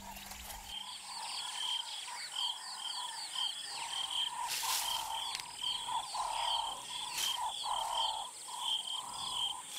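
Savanna night ambience: a steady high insect drone under a chorus of short, rapidly repeated chirping calls from insects and other small animals, with a couple of faint ticks in the middle.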